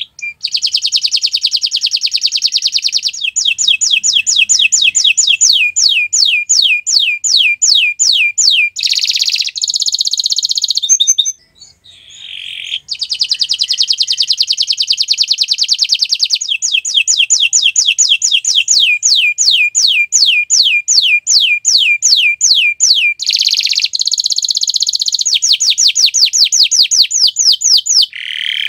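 Domestic canary singing a long, continuous song: buzzing rolls alternate with runs of rapid, falling whistled notes at about four a second, with a brief pause about twelve seconds in.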